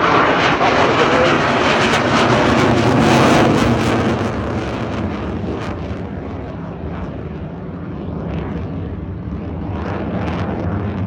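Royal Danish Air Force F-16's single jet engine at high power as the fighter powers away: loud rushing jet noise with crackle, loudest for the first few seconds and then slowly fading.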